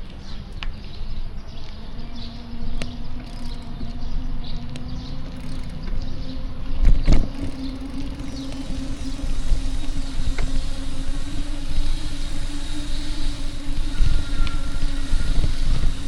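Street traffic with a motor vehicle's engine running steadily close by. A single thump comes about seven seconds in.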